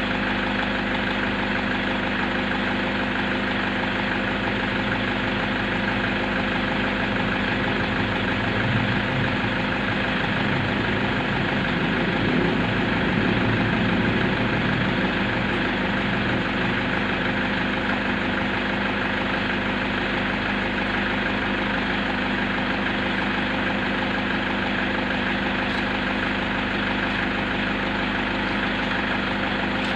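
Toyota car engine idling steadily, an even hum, slightly louder for a few seconds around the middle.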